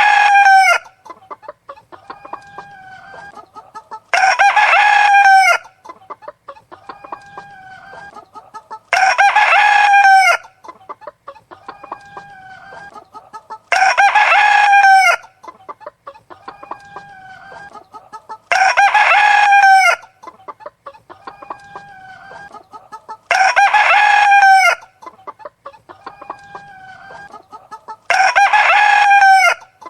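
Rooster crowing loudly at even intervals, about once every four to five seconds, seven crows in all. Fainter hen clucking comes in the gaps.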